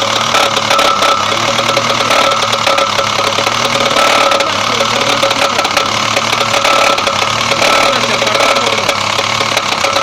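Opel car engine running with a steady, rapid knocking from inside the engine, the knock that is being diagnosed.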